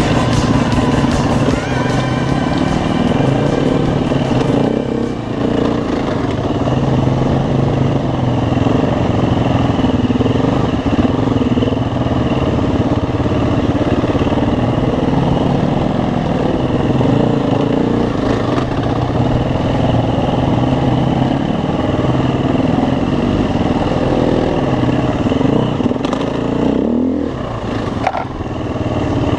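Dirt bike engine running and revving as it is ridden, its pitch rising and falling.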